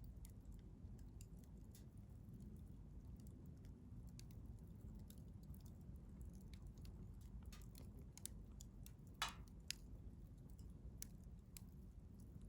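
Wood fire crackling softly, with scattered small pops and two louder crackles about three-quarters of the way through.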